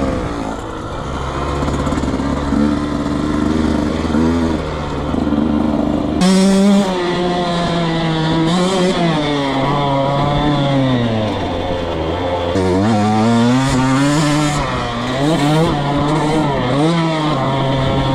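Dirt bike engine being ridden hard, its pitch rising and falling again and again as the throttle is opened and closed; the revving gets louder and sweeps wider from about six seconds in.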